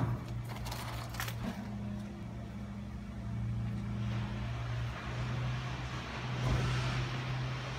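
A motor vehicle engine idling steadily with a low hum. A few clicks near the start, and a hiss rises in the second half.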